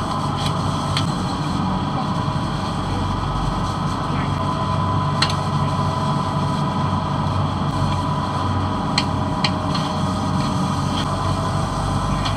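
A fishing boat's engine running at a steady idle, with a few sharp clicks and knocks on board now and then.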